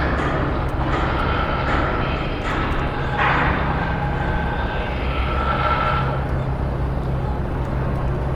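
Construction-site noise: a steady low drone of heavy machinery engines, with intermittent higher-pitched tones and a brief louder noise about three seconds in.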